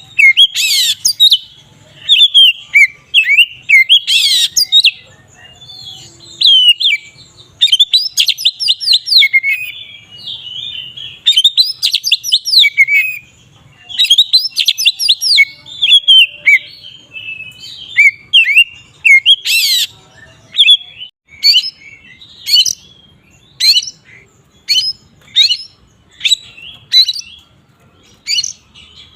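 Oriental magpie-robin (kacer) singing loudly in the full, continuous 'ngeplong' style: varied clear whistled phrases and rapid trills. In the last third the song breaks into short, separate sharp notes about one a second.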